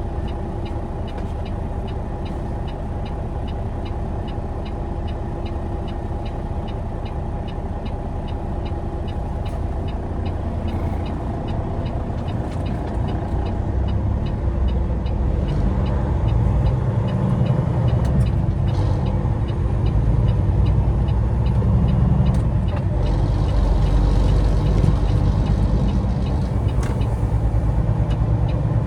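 Semi truck's diesel engine and road noise while driving, the engine growing louder and heavier about halfway through. A faint regular ticking runs through the first half.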